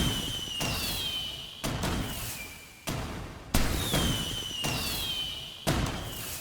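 Fireworks bursting: five sharp bangs about a second apart, each fading out, with high whistles that glide down in pitch over them.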